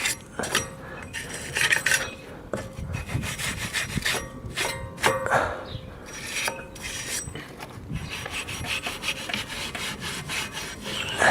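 A steel hand tool scraping and rubbing rust and dirt off the brake parts in irregular strokes, as they are cleaned with metal during a brake disc and pad change.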